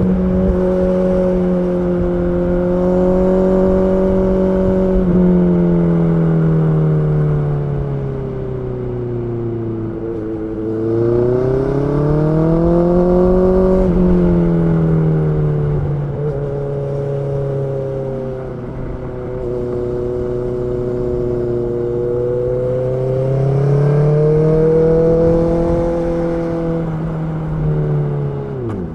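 Honda CB650R's inline-four engine running under way, its pitch rising and falling slowly as the throttle is opened and eased, with a sharp dip and recovery near the end.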